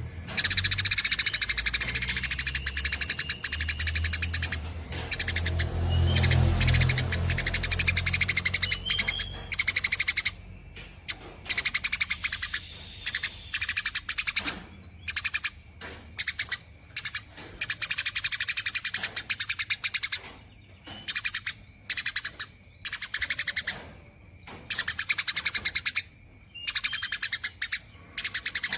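Eurasian tree sparrow chattering in long, rapid runs of chirps, in bursts of a few seconds with short breaks; the later bursts are shorter and more broken up. A low rumble sits underneath for a few seconds near the start.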